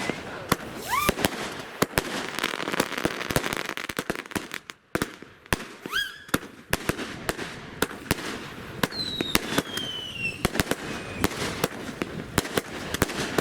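A consumer firework cake firing a rapid series of shots, with sharp bangs and crackling throughout. There are whistles among them: one rising about a second in and another about six seconds in, and a falling one near nine seconds. A brief lull comes a little before the middle.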